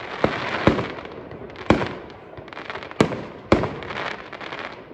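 Aerial firework shells bursting: five or so sharp bangs at uneven intervals, with a steady crackle between them.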